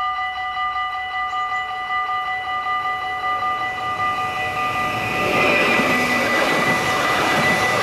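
Level-crossing warning bell ringing rapidly and steadily while a Stadler FLIRT electric train approaches and passes over the crossing. The train's rolling noise grows from about three seconds in and is loudest from about five seconds in, as it goes by close to the bell.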